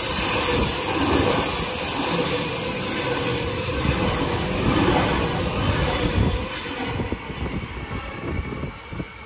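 Sydney Trains double-deck electric train running past close by, with a steady noise of wheels on rail and motors. The sound falls away from about six seconds in as the last carriage clears.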